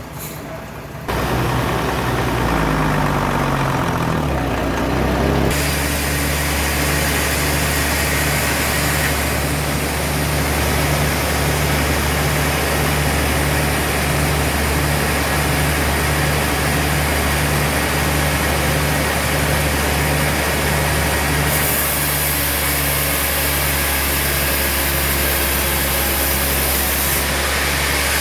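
Sawmill machinery motor starting up about a second in, rising in pitch over about four seconds, then running steadily with a regular low pulsing hum.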